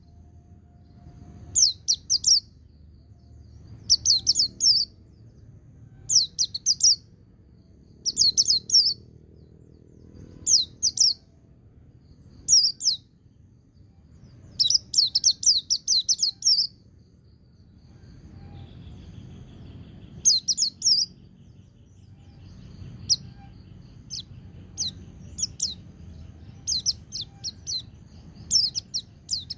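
White-eye (pleci) singing in bursts of rapid high chirping notes about every two seconds, with one longer run in the middle, breaking into shorter, scattered notes over the last few seconds.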